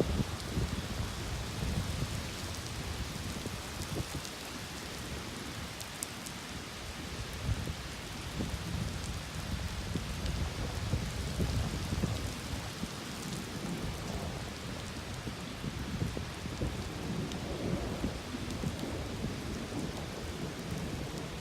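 Steady rain hissing throughout, with low rolling thunder rumbling underneath that swells and fades several times.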